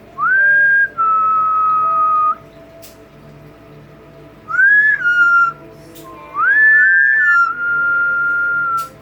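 Double yellow-headed amazon parrot whistling: three clear whistled phrases, each note sliding up and then held steady, the last one about two and a half seconds long.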